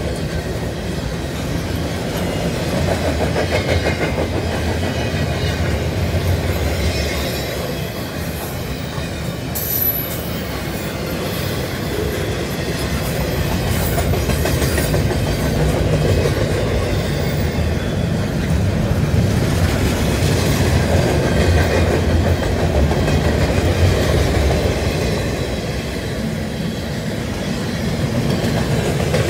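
Double-stack intermodal container train's well cars rolling past at steady speed: a continuous rumble and clatter of steel wheels on the rails that swells and eases slightly, with a brief high-pitched squeal about ten seconds in.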